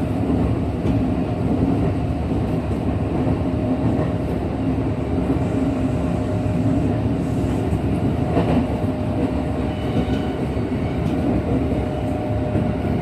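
Kintetsu 1233 series electric train running at speed, heard from inside the car: a steady rumble of wheels and running gear with a steady hum, from a set singled out for an abnormal running noise. A brief knock about eight seconds in.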